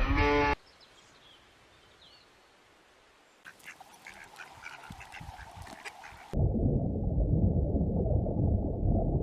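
Ducks quacking: a few faint short calls about three and a half seconds in, then louder and muffled from about six seconds in.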